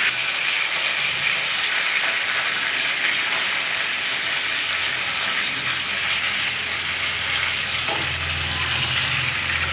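Chicken pieces sizzling as they shallow-fry lightly in hot oil in a non-stick frying pan, a steady frying hiss.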